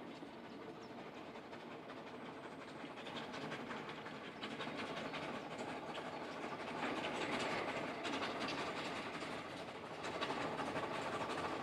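Narrow-gauge train running past on the rails, its wheels clicking over the rail joints, growing louder in the second half.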